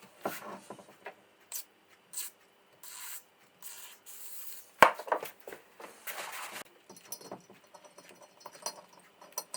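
Hand sanding with sandpaper: several separate short rasping strokes, with a sharp knock about halfway through, then lighter scattered rubbing and clicks.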